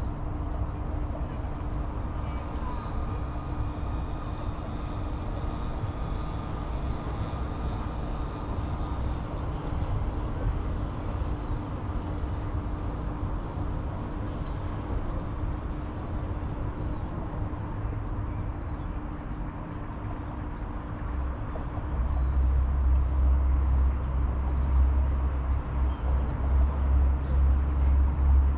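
Steady outdoor city ambience: a continuous rumble of distant traffic with a steady low hum running through it. A fainter high, even tone sounds over the first third, and the deep rumble grows louder about three quarters of the way through.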